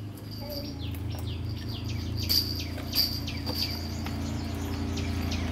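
Birds chirping over and over in quick, short, downward-sliding calls above a steady low hum.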